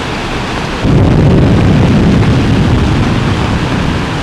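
Loud, steady rushing of torrential floodwater. About a second in, a heavy low rumble comes in over it and eases near the end.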